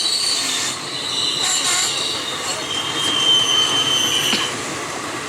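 Wheels of an Indian Railways express train squealing on the rails over the rumble of the passing coaches. There are several high, steady squeals, the last held for over a second and cutting off about four seconds in.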